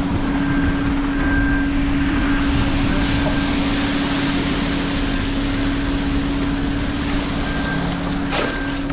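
Concrete mixer truck's engine running steadily during a pour, a constant hum over heavy mechanical noise.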